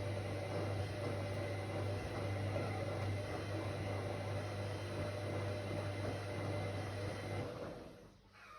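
Whirlpool AWOC 8283 washing machine running with a steady hum and a thin high whine, which dies away quickly near the end as the machine stops.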